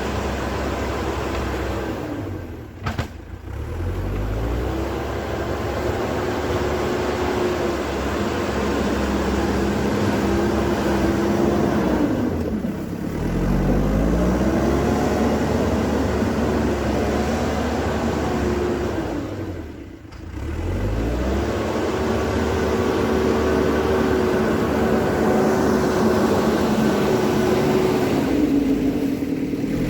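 Diesel engine of an earthmoving machine working under load, held at a steady pitch. Three times it dips low and revs back up.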